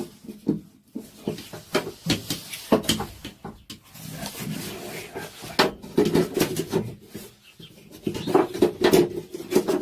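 Irregular knocks, taps and rubbing of a replacement dash pad being pushed and worked into place on a pickup's dashboard, with busier spells of clunking about six seconds in and near the end.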